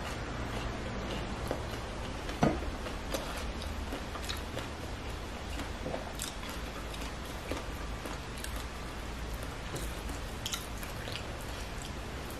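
Close-miked chewing and mouth sounds of a person eating, with small clicks and taps as her fingers handle the food; one sharper knock about two and a half seconds in.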